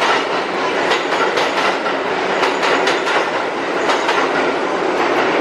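New York City subway train running: a steady loud rumble with the clatter of wheels over the rails.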